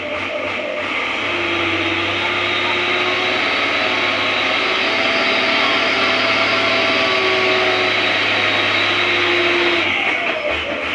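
Truck engine running hard and steadily under load on a slippery uphill climb, with a sustained whining hiss.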